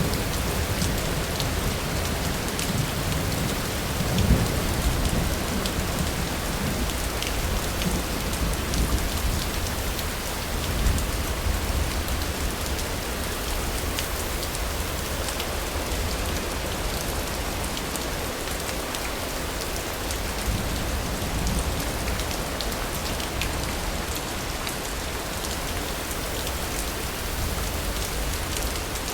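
Steady heavy rain falling, with scattered drips and, now and then, a low rumble of distant thunder. The clearest rumbles come about four seconds in and again about eleven seconds in.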